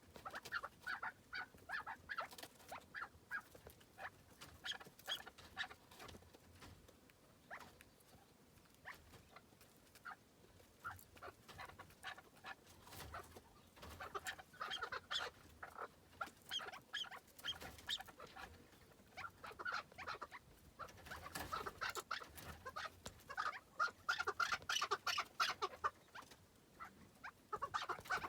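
Chukar partridges calling in rapid runs of short clucking notes, in bursts that thin out in the middle and come thickest about three quarters of the way through.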